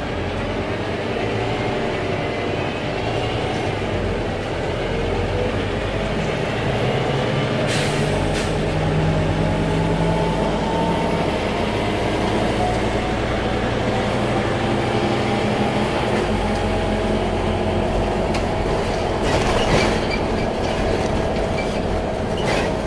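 Scania K310IA bus driving. The engine note rises in long sweeps as it pulls through the gears of its ZF automatic gearbox, over steady road and body noise with a few knocks.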